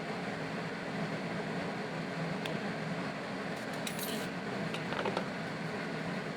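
Steady hiss and hum of a low-amperage TIG welding arc on the rusty steel of a VW torsion bar cover, melting filler rod into the edge of a hole on a first pass. A few light metallic clicks come in around the middle.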